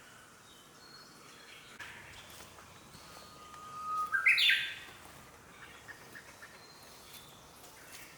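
Wild birds in a forest: one bird gives a single loud call about four seconds in, a held note that climbs in quick steps to a higher pitch, with faint chirps from other birds before and after.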